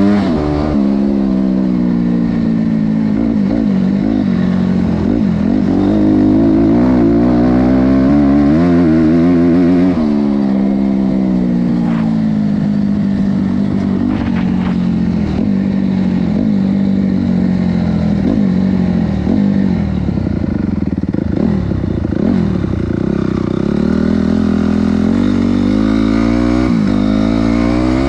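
Honda CRF250R's single-cylinder four-stroke engine being ridden hard, its note climbing and falling again and again as the throttle is opened and closed, with a sudden drop in pitch about ten seconds in.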